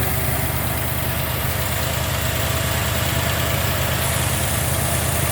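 Rebuilt AMC 360 V8 engine with Holley EFI fuel injection idling steadily and smoothly, its AC compressor switched off.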